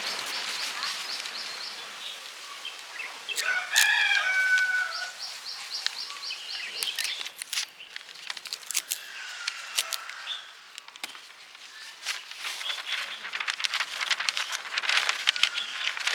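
Scattered clicks and light knocks, with one short pitched animal call, rising then falling, about four seconds in.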